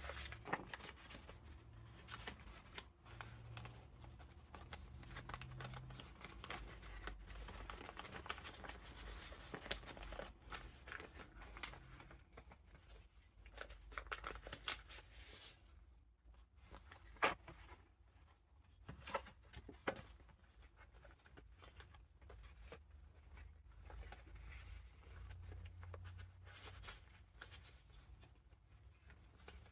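Pages of a handmade junk journal of vintage paper being turned and handled, rustling and crinkling, with a few sharper snaps of paper past the middle.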